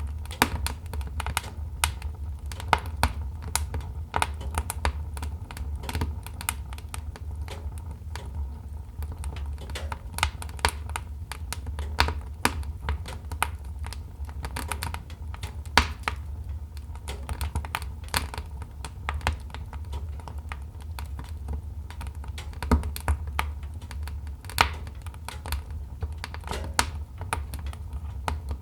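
Wood fire in a fireplace crackling: irregular sharp cracks and pops, several a second with some louder ones, over a steady low rumble.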